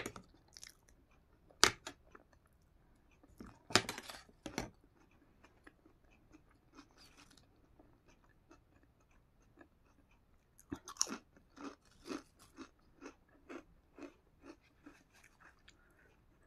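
Crisp potato chips bitten and chewed close to the microphone, with loud sharp snaps at about 2 and 4 seconds in, then a run of crunchy chewing at about two or three chews a second in the second half.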